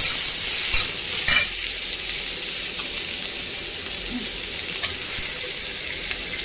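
Chopped onion, garlic and green chilli sizzling steadily in hot oil in a metal kadhai, with a flat metal spatula scraping and tapping the pan. There is one louder scrape about a second in.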